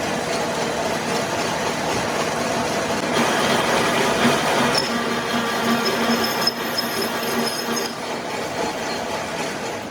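Steady metalworking machine noise: a continuous mechanical rush with a faint high whine that comes and goes.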